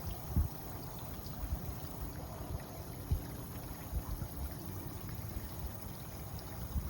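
Waterfall: water rushing steadily, with low buffeting thumps mixed in.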